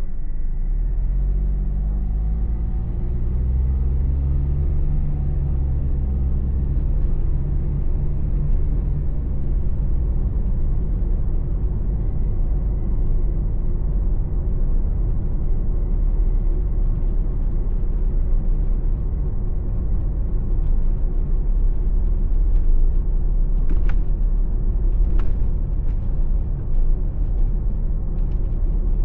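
Car engine and tyre road noise heard inside the cabin while driving. The engine note rises as the car picks up speed over the first several seconds, then settles into a steady rumble. A few light clicks come about three-quarters of the way through.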